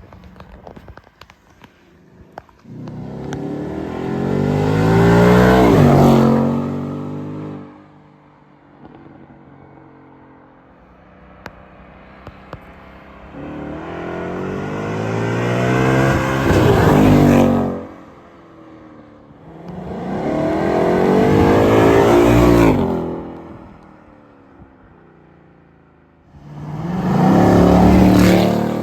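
Ford Mustang GT's 5.0-litre V8 accelerating hard past four times, each pass rising in pitch as it swells, then dropping sharply in pitch as it goes by. The last pass is still going at the end.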